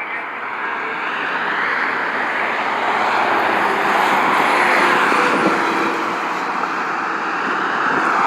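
Road vehicles passing close by: the noise of tyres and engines swells to a peak about halfway through, eases, then builds again near the end.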